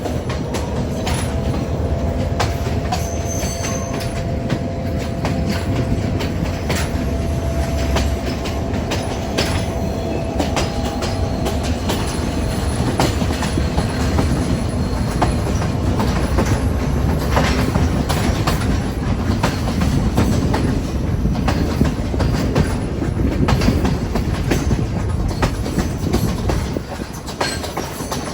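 Train carriage running along the track: a steady low rumble with frequent clicks and clacks of the wheels over the rail joints. A faint high-pitched wheel squeal runs through the first half, then fades.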